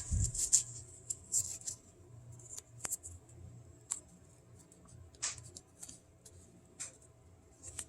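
Scissors cutting paper to make a small tab: a handful of short, sharp snips spaced irregularly, with light paper handling between them.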